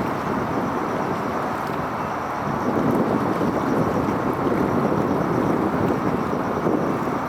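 Steady rushing noise of wind on the microphone, even throughout with no distinct events.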